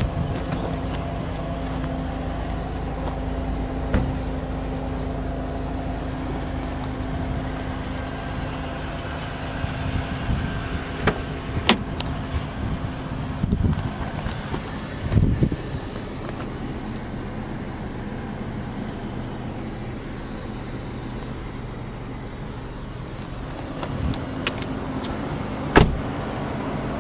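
Car engine idling steadily, with a few sharp clicks and a dull knock now and then.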